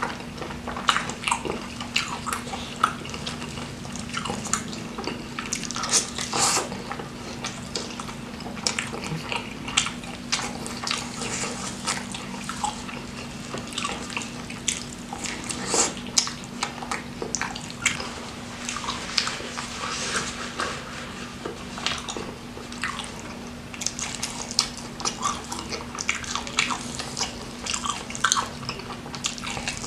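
Close-miked eating: irregular crackling bites and wet chewing and smacking of chicken and its skin, over a steady low hum.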